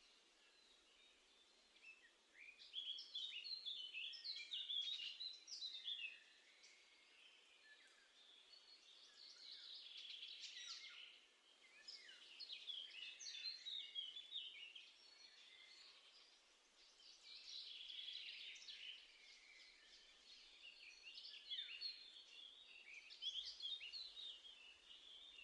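Small songbirds chirping and singing in about five short bouts of quick, high notes, with quieter gaps between them, over a faint steady hiss.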